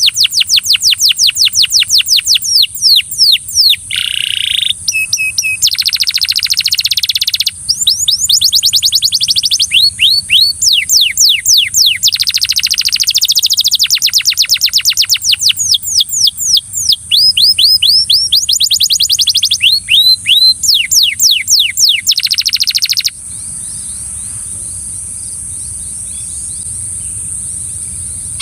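Belgian canary singing loudly in long, fast trills, each a rapid run of high whistled notes falling in pitch, with a harsher rattling phrase about four seconds in. The song stops about 23 seconds in and starts again near the end.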